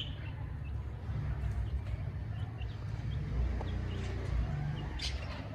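Budgerigars chirping in short, scattered calls over a steady low rumble.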